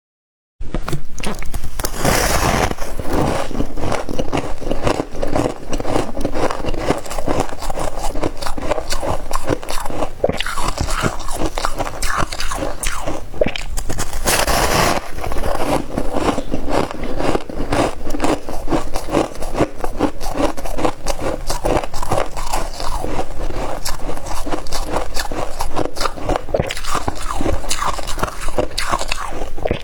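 Frosty humidifier ice being bitten and chewed close to the microphone: a dense, continuous crisp crunching and crackling that starts about half a second in, with louder crunches now and then.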